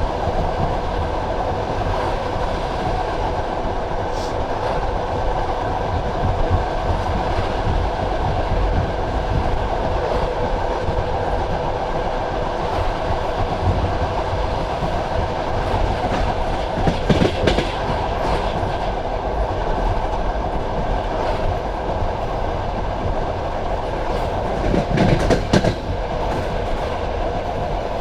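Passenger train carriage running along the track: a steady rolling rumble of wheels on rail, with louder bursts of clickety-clack clatter about two-thirds of the way through and again near the end.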